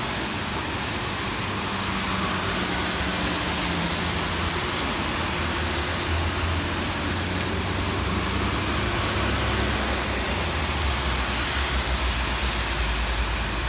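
Steady hiss of falling rain, with a low rumble that builds from about halfway through and grows toward the end.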